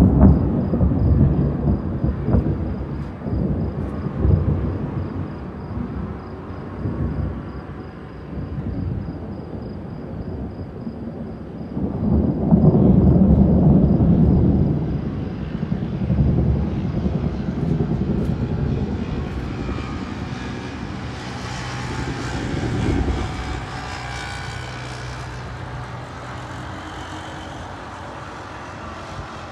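Thunder rolling and rumbling in long waves: a strong rumble at the start, a bigger swell about twelve seconds in, and another, weaker one some ten seconds later.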